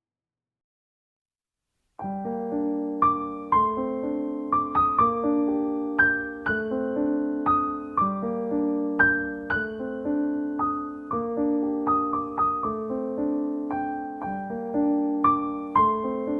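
Background piano music, gentle notes with slow decays, starting about two seconds in after silence.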